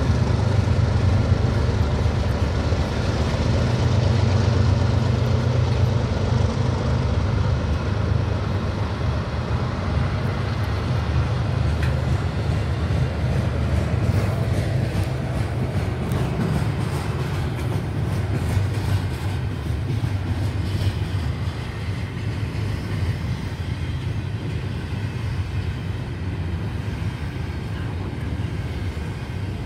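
CN freight trains passing. A steady low diesel-locomotive drone slowly fades under the rolling rumble of double-stack intermodal container cars, with light clicks in the middle.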